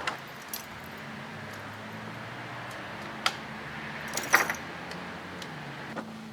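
A few light metallic clinks and rattles of small hard objects being handled, the loudest cluster about four seconds in, over a steady low hum.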